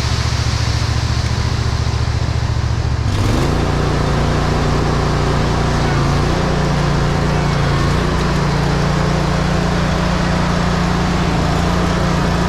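Diesel engine of a ready-mix concrete mixer truck running, revving up about three seconds in and holding at the higher speed to turn the mixing drum.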